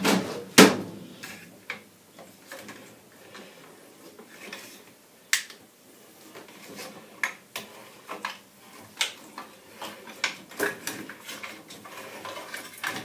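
Metal clicks and light knocks as a gas valve is unscrewed by hand from its pipe, with two sharp knocks in the first second and scattered lighter ticks after.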